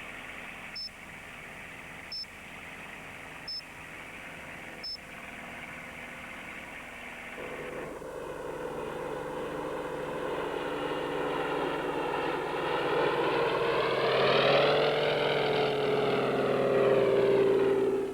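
Radio-tracking receiver bleeping four times, about every second and a half, over a steady engine drone. From about seven seconds in, a light aircraft's engine grows louder, its pitch rising and then falling as it passes.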